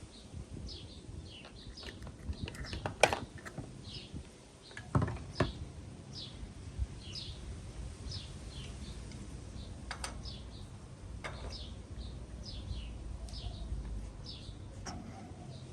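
A small bird chirping over and over, short high notes every half second or so, with a few sharp knocks, the loudest about three seconds in and a pair about five seconds in.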